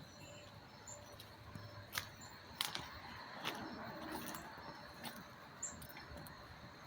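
Quiet yard ambience: faint, short, high bird chirps here and there, with a few soft clicks.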